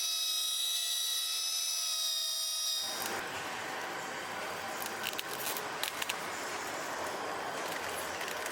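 A steady, high-pitched machine whine of several tones, which cuts off about three seconds in and gives way to a broad hiss of machinery with a few sharp clicks.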